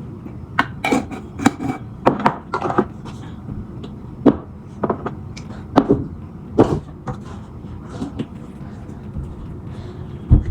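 Irregular light knocks and clicks, some with a short ring, about one a second, from a spoon and containers handled while spices are added to and mixed into a bowl of chatpate. A faint steady room hum runs underneath.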